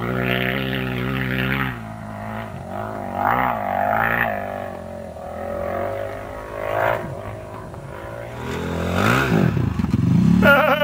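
Motocross dirt bike engine revving up and backing off several times as it rides through sand dunes, the pitch rising and falling with the throttle.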